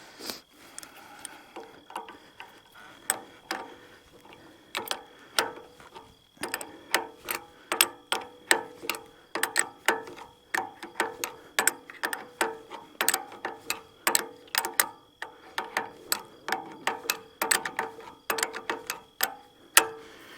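Ratchet wrench clicking in quick runs of strokes as a fitting on an excavator's hydraulic hose is tightened. The clicking starts about two seconds in and comes in bursts of several clicks a second.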